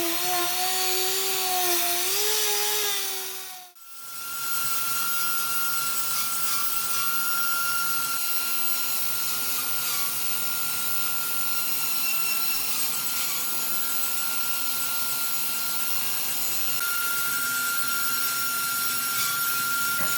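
Power tools working wood. At first a motor whose pitch wavers as it is loaded. The sound drops out briefly about four seconds in, and then a steady high-pitched tool whine runs over a rasping, grinding noise.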